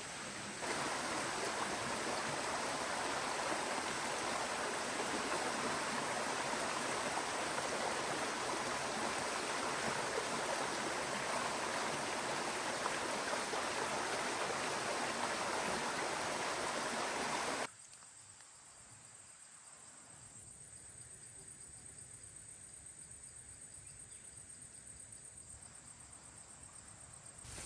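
Stream water rushing steadily. It cuts off abruptly about two-thirds of the way through, leaving a much quieter natural background with a faint, steady high-pitched tone.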